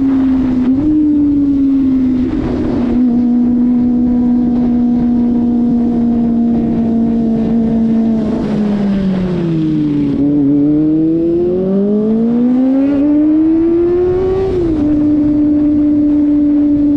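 Kawasaki ZX-25RR's 250 cc inline-four engine on the move, holding steady revs with short pitch jumps as gears change. Its pitch then falls away as the throttle closes and rises again under acceleration, climbing until a sudden drop at an upshift about 15 seconds in.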